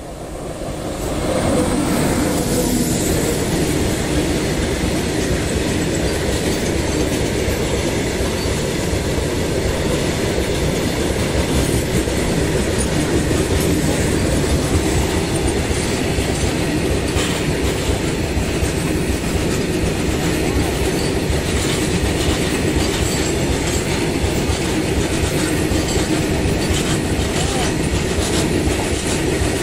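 An Indian Railways electric locomotive passes close by, followed by a long freight train of covered goods wagons rolling past at speed. The wheels clatter steadily over the rail joints. The sound swells over the first two seconds as the locomotive arrives, then stays loud and even.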